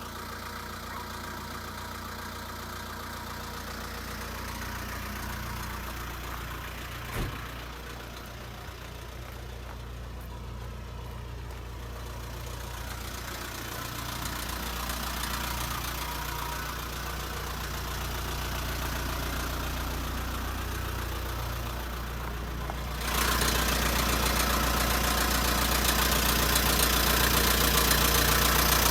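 Nissan Civilian bus's ED33 inline-six diesel engine idling steadily. There is a single click about seven seconds in. From about 23 seconds in, the engine sound is louder, with much more hiss.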